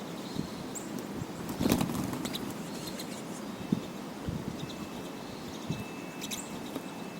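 Pine siskins' wings fluttering close to the microphone as the small finches land and take off around the feeder's hand, with a louder flurry about two seconds in. A few faint, brief high chirps.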